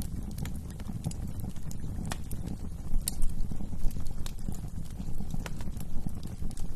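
Wood fire burning in a fireplace: a steady low rumble of flames with irregular crackles and pops, a sharper pop about three seconds in.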